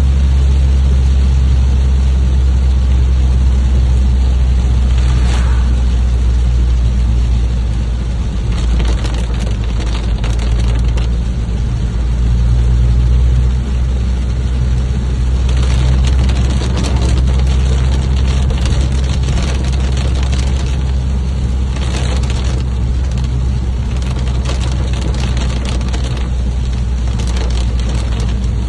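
Rainstorm ambience: a steady deep rumble under an even hiss of rain, which swells into louder crackling gusts several times.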